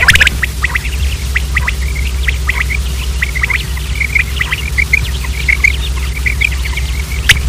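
Common quail giving many short, soft chirps in quick, irregular succession, over a steady low hum.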